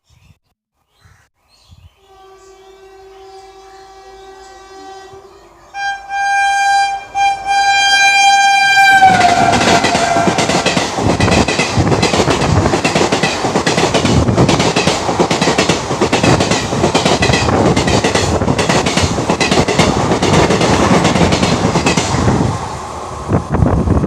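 Indian Railways locomotive horn sounding as a train approaches: a fainter blast from about two seconds in, then a long loud blast whose pitch drops as the locomotive passes. The train then rushes by with a steady, rhythmic clickety-clack of wheels over the rail joints.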